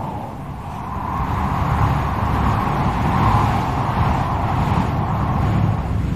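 Wind blowing in gusts: a low rumbling rush with a wavering howl that rises and falls in pitch. It eases just after the start, then swells back up.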